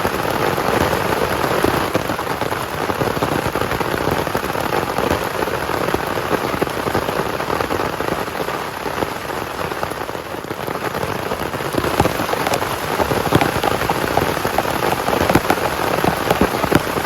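Heavy rain falling: a steady hiss of rain with many separate drop hits, which grow louder and more distinct in the second half.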